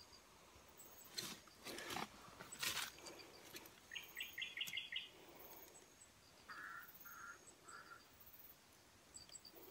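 Faint forest ambience with birds calling: a quick run of about six short chirps, then three short calls a little later. A few scuffing noises, the loudest sounds, come in the first three seconds.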